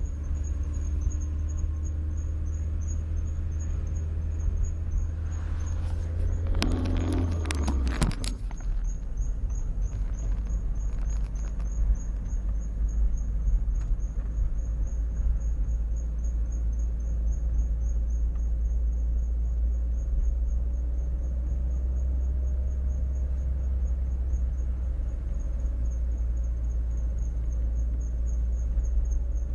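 Car driving with a thin, high-pitched squeak that pulses steadily with the wheels' rotation over the road rumble, from worn brake pads; new pads cured it. A brief clatter sounds about seven seconds in.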